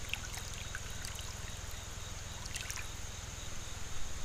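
River water running steadily, with a few faint clicks over it.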